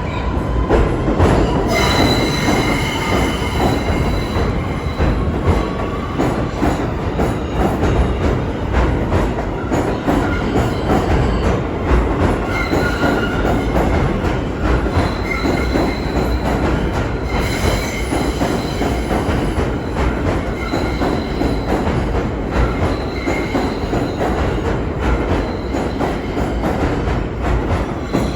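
A New York City subway train running through the station, with a loud steady rumble and clatter of steel wheels on the track. High-pitched wheel squeal comes and goes, strongest about two seconds in and again near the middle.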